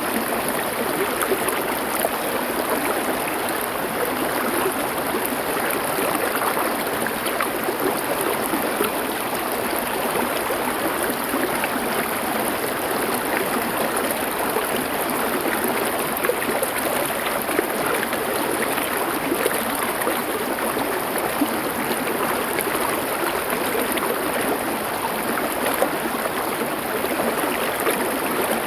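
Stream water flowing over stones: a steady, even rush.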